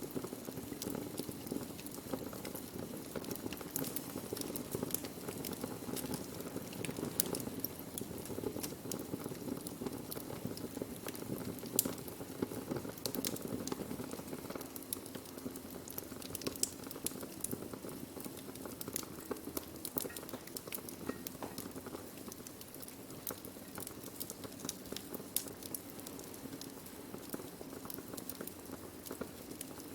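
Wood fire burning: irregular sharp crackles and pops from the burning wood over a steady low rush of flame.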